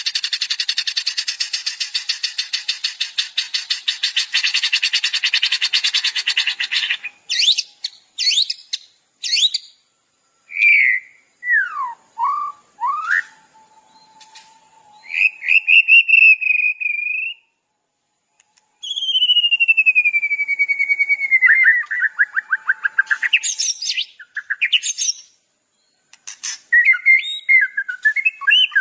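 Recorded songbird calls played as a master track for training cage birds. A long, rapid, buzzy trill lasts about seven seconds, followed by a series of short chirps and slurred whistles, including a long falling whistle about twenty seconds in.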